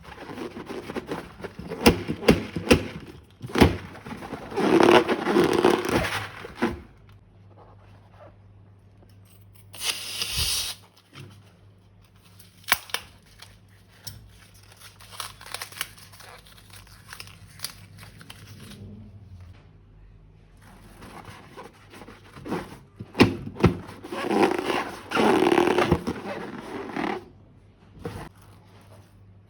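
Slime being squeezed and mixed by hand with crinkling plastic, full of sharp clicks and squishing, in two busy stretches: one near the start and one about two-thirds through. A short hiss comes about ten seconds in.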